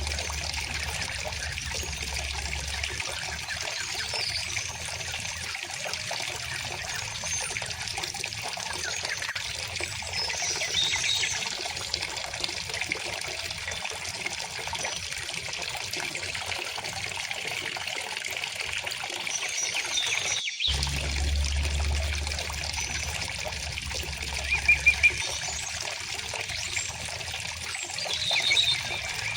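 River water flowing with a steady trickle and babble, with a few high bird chirps over it. The sound cuts out for an instant about two-thirds of the way through.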